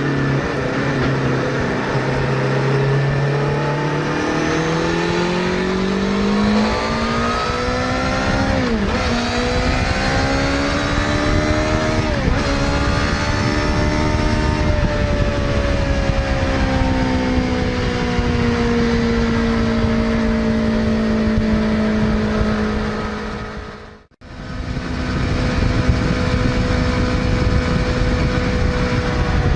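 Suzuki GSX-R600 inline-four motorcycle engine pulling up through the revs, its pitch climbing steadily, with two brief dips like gear changes. It then holds a high, steady pitch that sags slowly. The sound cuts out briefly about three-quarters of the way through, then comes back at the same steady pitch.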